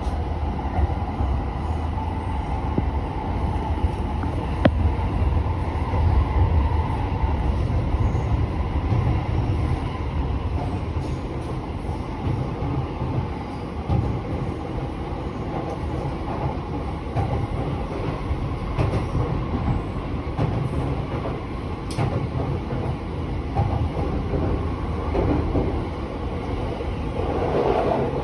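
Inside the carriage of a commuter train running between stations: a steady low rumble of wheels on the rails with a few sharp clicks.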